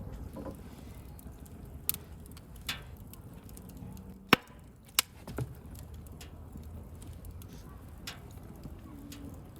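Wood fire burning, a low steady rumble of flames with sharp crackling pops every second or so, the loudest two just after four and five seconds in.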